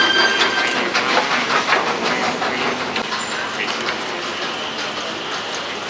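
Metro train running past in the station, its wheels clattering over the rails with irregular clicks and a steady rumble that slowly fades.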